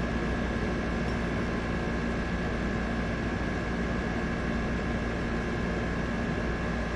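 Steady background hum and hiss with a constant high whine.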